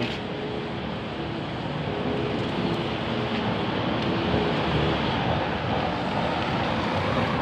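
A machine running steadily: an even rushing noise with a faint steady hum, growing a little louder about two seconds in.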